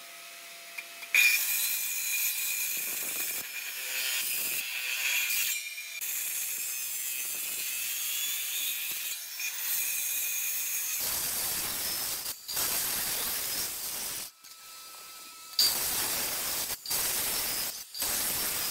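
Handheld Makita circular saw running and cutting a grid of shallow kerfs into the top face of a turned wooden post. It comes in several stretches that start and cut off abruptly, with a steady high whine in the first few seconds.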